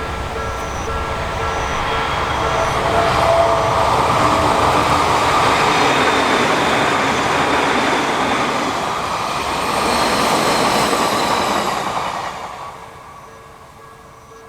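An Odakyu Line electric train passes at speed: its noise swells over the first few seconds and fades away after about twelve seconds, with a high whine sliding down in pitch during the pass. A level crossing warning bell rings in a steady beat, heard at the start and again as the train fades.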